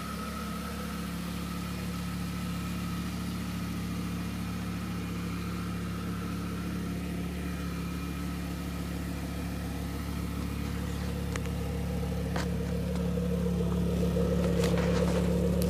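Audi RS6 MTM's twin-turbo V10 idling steadily, growing louder about three-quarters of the way through. A few light clicks sound over it near the end.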